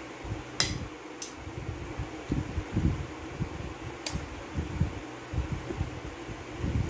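Close-up eating sounds: irregular low, soft chewing of soft banana and ice cream, with a few sharp clinks of a metal fork against the plate, three of them in the first four seconds.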